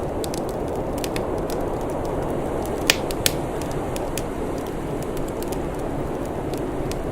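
Wood fire crackling: scattered sharp crackles over a steady low rumble, with two louder pops about three seconds in.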